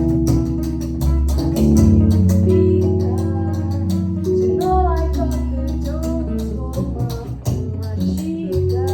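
Live band music: guitar and bass under a steady beat, with a voice singing a wavering melody through the middle.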